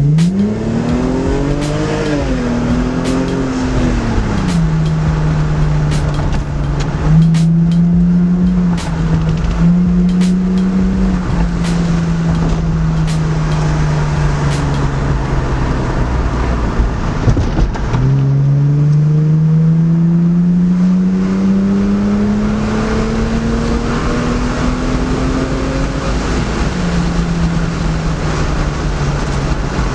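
Lexus IS300's 2JZ inline-six running through a newly installed exhaust Y-pipe while the car is driven: the engine revs up, holds a steady note, then pulls steadily upward through a gear and drops back at the shift near the end. The exhaust is a bit louder than stock.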